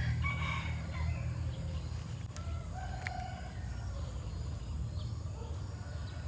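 A rooster crowing, over a steady low rumble.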